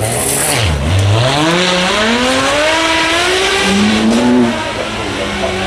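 Ferrari 599 GTO's V12 accelerating hard. The engine note dips briefly, then climbs steadily for about three seconds, drops at an upshift and climbs again before levelling off.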